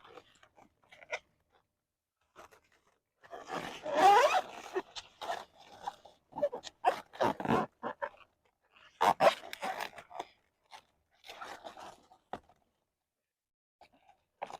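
Irregular crackling and rustling of large cauliflower leaves being gathered up and tied with string around the head. The loudest handling noise, about four seconds in, carries a brief rising squeak.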